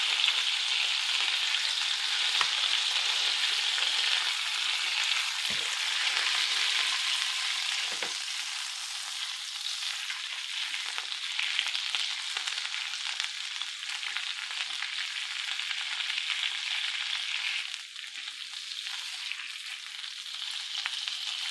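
Turkey liver sizzling as it fries in butter in a pan, the steady hiss of hot fat going on while a spoon moves the liver around. A few light knocks of the spoon against the pan come in the first half.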